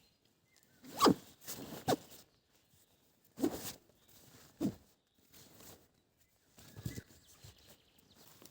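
A zipper pulled in about five short strokes, each a quick rasping zip, spaced irregularly a second or two apart.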